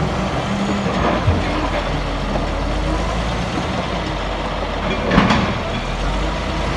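Heavy diesel machinery running steadily, with a brief noisy burst about five seconds in.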